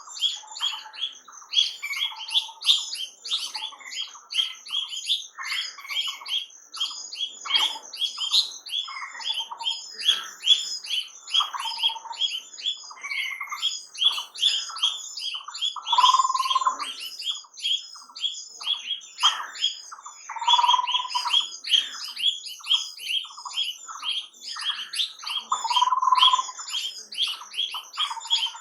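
Many birds chirping rapidly and continuously in a dense chorus, with a lower, held call standing out a few times, a few seconds apart.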